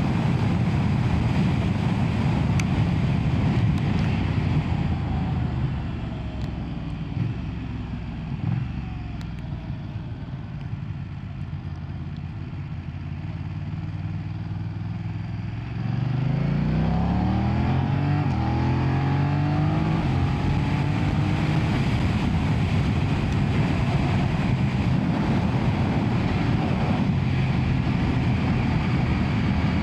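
A 2025 BMW F900R's 895cc parallel-twin engine under way. The engine note falls away about six seconds in and runs quieter for a while. About sixteen seconds in it opens up again, its pitch rising as it accelerates, then holds steady and loud.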